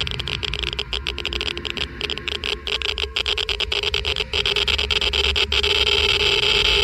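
Geiger counter clicking rapidly and irregularly, a dense crackle of counts over a steady hum that swells slightly near the end.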